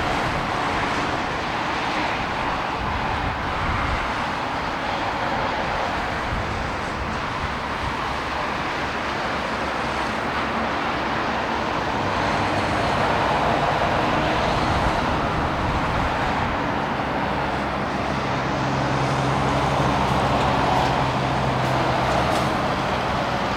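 Jet engine noise of a Boeing 787-9 on its landing roll and slowing down: a steady rushing sound that swells a little twice in the second half.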